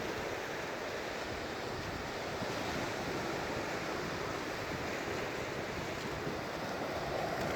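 Surf breaking and washing on a sandy beach, a steady rushing noise, with some wind buffeting the phone microphone.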